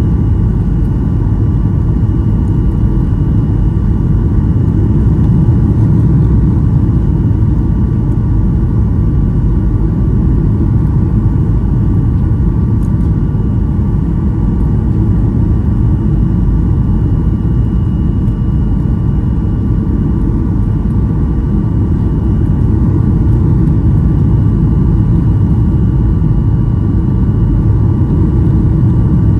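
Steady cabin rumble inside a Boeing 737-800 with its CFM56-7B turbofan engines running, a deep even roar with a faint thin whine over it.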